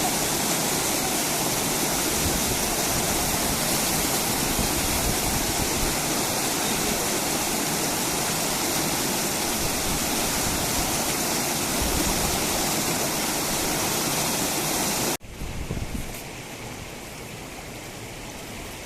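Rushing water of a stream or waterfall, a steady noise. About fifteen seconds in it breaks off sharply and gives way to a quieter rush of water.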